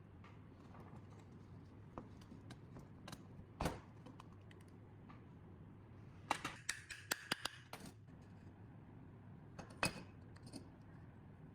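Scattered clicks and taps of small metal parts and hand tools being handled, with a quick run of about eight clicks a little past halfway and single louder knocks near the start and near the end.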